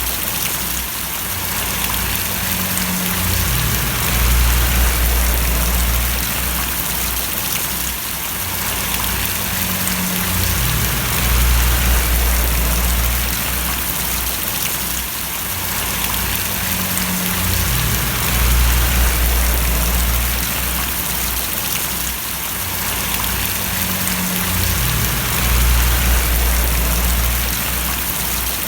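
Steady rain, a dense even hiss of falling drops and splashing, with a low rumble underneath that swells and drops back about every seven seconds.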